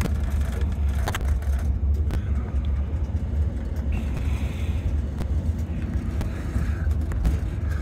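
Inside a carriage of the Yellow Train, the narrow-gauge mountain railway, rolling slowly into a station: a steady low rumble of the running train. There are a couple of sharp clicks in the first two seconds and a short hiss about halfway through.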